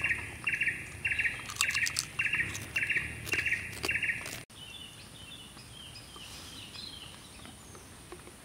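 A forest bird calling in a steady rhythm: a short buzzy trill repeated about every half second, eight or so times, breaking off suddenly about four and a half seconds in. After that come faint, higher twittering bird calls, and earlier a few light crackles as potato chips are handled in a plastic tub.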